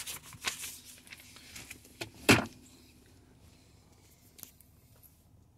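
Handling noises in a vehicle cabin: scattered light clicks and rustles with one sharp knock about two seconds in. A faint steady hiss cuts off near the end.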